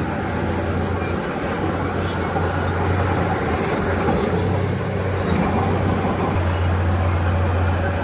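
Heavy diesel earthmoving machinery running steadily, a low, even engine hum with faint high squeaks scattered through it.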